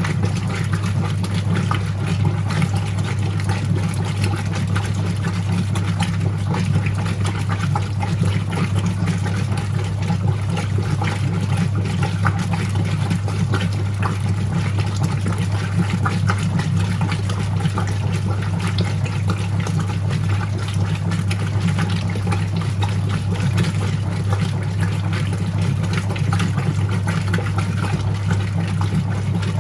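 Whirlpool 3RLSQ8033SWD top-loading washing machine agitating a load on the delicate cycle: a steady low motor hum with water sloshing in the tub.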